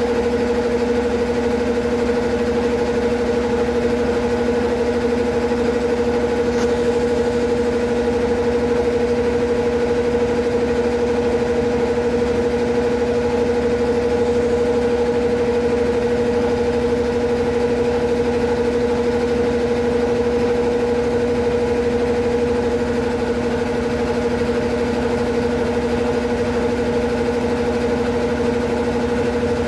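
Consul Facilite 11 kg washing machine running in its wash stage: a steady, unchanging motor hum.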